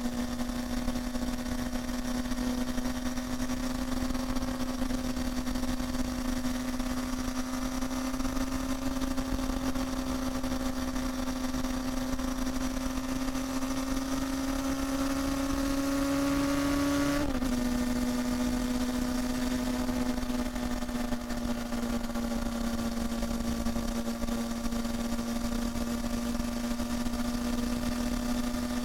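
Honda Hornet 250's inline-four engine and exhaust running at high, held revs, a steady high-pitched note. The pitch creeps slowly upward, then drops abruptly about two-thirds of the way through and holds steady again.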